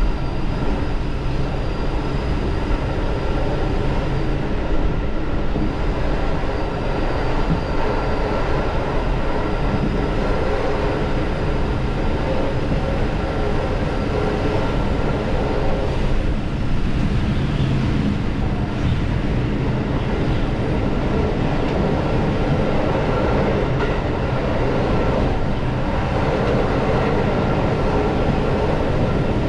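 Diesel railcar running steadily along the line, its engine and running noise unbroken throughout.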